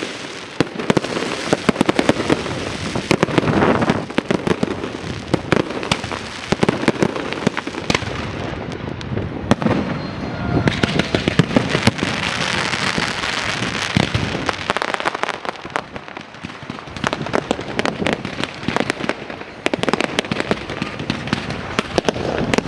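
Fireworks display: a continuous barrage of bangs and sharp pops with crackling between them.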